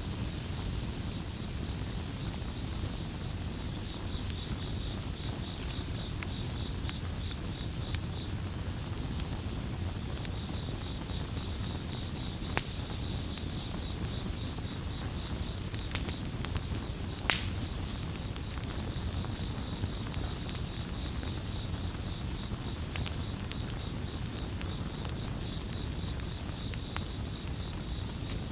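Campfire crackling, with scattered sharp pops, a couple of them louder near the middle, over a low steady rumble of the flames. Crickets chirp in a high pulsing trill that comes in about four seconds in and drops out briefly partway through.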